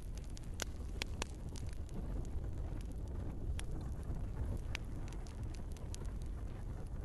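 Log fire in a fireplace crackling, irregular sharp pops over a low steady rumble of the flames, with a few louder pops in the first second or so.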